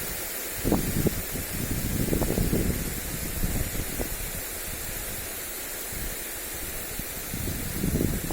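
Lawn sprinkler spray hissing steadily onto grass. Wind gusts buffet the microphone about a second in, again around two seconds in, and near the end.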